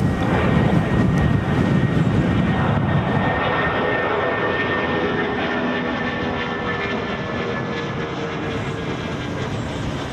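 Boeing 787 Dreamliner's jet engines as it comes in to land: a loud, steady jet noise with a faint whine that slowly fades as the aircraft passes.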